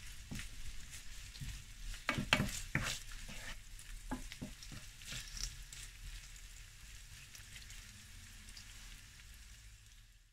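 Chopped garlic and diced ham sizzling in olive oil in a frying pan, stirred with a wooden spoon that scrapes and taps against the pan now and then in the first half. The sizzle gets quieter toward the end.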